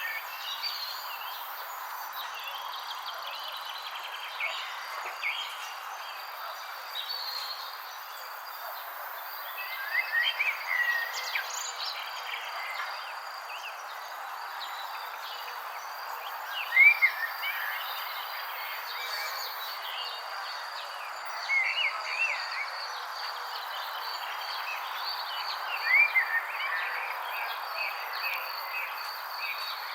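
Small songbirds chirping in short, quick phrases every few seconds, over a steady high-pitched insect trill and a constant background hiss. The loudest chirps come a little past the middle.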